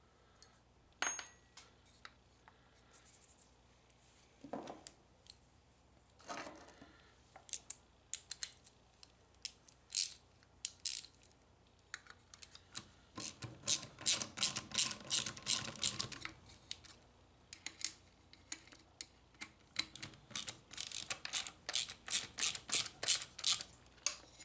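Small metal tools and parts being handled at a workbench: scattered single clicks and clinks, then two long runs of rapid clicking, one about halfway through and one near the end.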